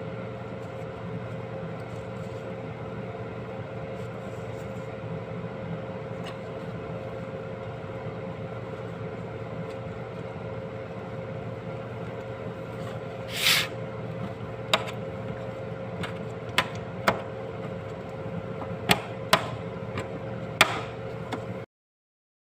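Steady background hum. From about halfway through come around seven sharp taps, the sound of a utensil pricking holes into raw chicken pieces and striking the dish underneath.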